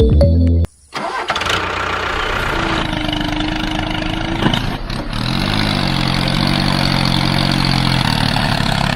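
Music cuts off under a second in. A moment later a small engine starts and keeps running steadily.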